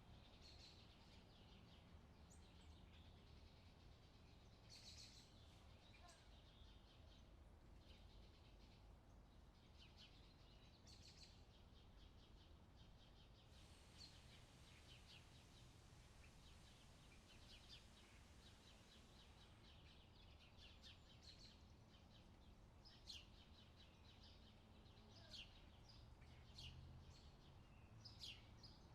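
Faint forest birdsong: many short chirps and trills from several birds, thicker toward the end, over a low steady hum.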